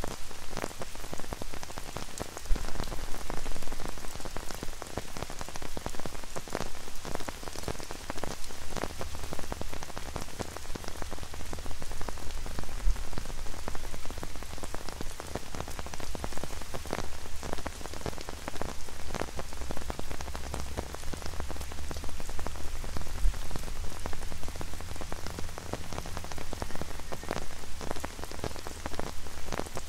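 Steady rain falling on an umbrella overhead and on wet paving, a dense, irregular tapping of many separate drops. A low hum sits underneath, stronger from about a third of the way in until near the end.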